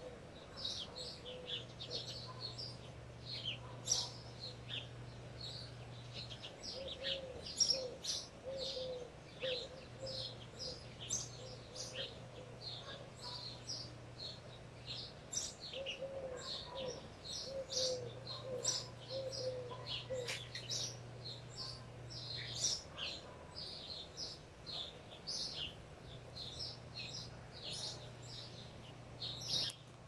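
Several small birds chirping and twittering in quick, overlapping calls. Twice in the middle, a run of short, low, evenly spaced notes from another bird, and a faint low hum that comes and goes.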